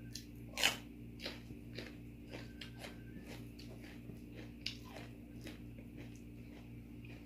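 A person chewing crunchy food close to the microphone: a run of irregular crunches and mouth clicks, the loudest about half a second in.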